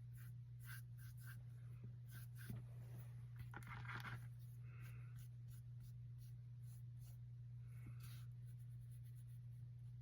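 Paintbrush strokes on canvas: short, soft brushing scrapes of acrylic paint being blended, the busiest patch about four seconds in, over a steady low hum.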